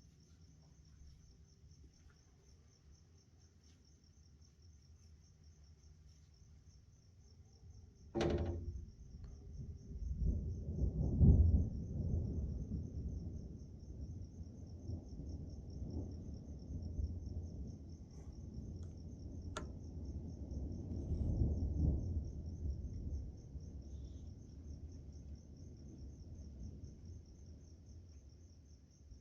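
Night insects chirping steadily in a high pulsing trill. About eight seconds in, a clap of thunder cracks and rolls into a long, low rumble that swells twice and slowly fades.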